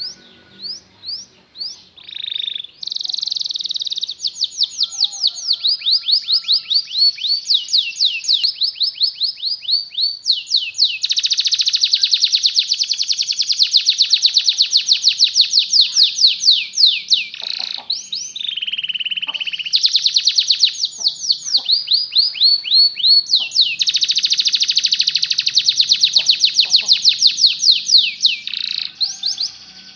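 Canary singing a long, nearly unbroken song of fast high trills: runs of rapidly repeated sweeping notes that change from phrase to phrase, with only brief breaks.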